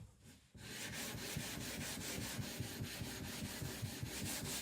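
Whetstone being rubbed back and forth on a flattening plate, a gritty scraping in quick even strokes that starts about half a second in: the Naniwa Aotoshi 2K stone being lapped flat to remove a high spot.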